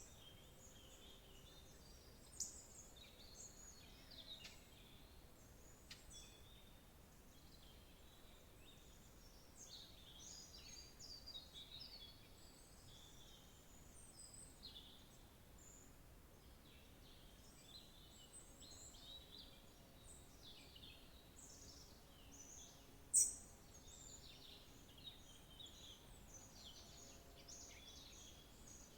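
Faint chorus of many small birds chirping and trilling, calls overlapping all the while, with a louder sharp call near the start and a much louder one about three-quarters of the way through.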